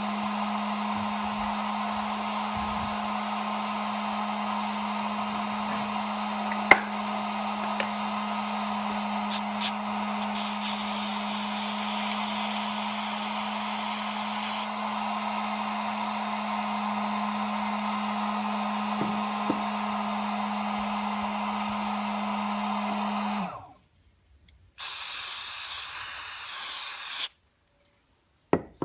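Electric hot-air blower running steadily with a motor hum and rushing air, heating the bi-metal strip of a viscous fan clutch; it is switched off about three-quarters of the way through. A few sharp clicks come in the first half, and a short burst of high hissing air follows near the end.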